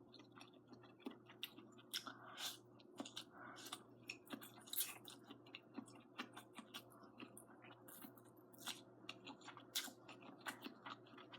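Faint close-miked chewing of braised noodles with string beans: many soft, irregular mouth clicks and smacks.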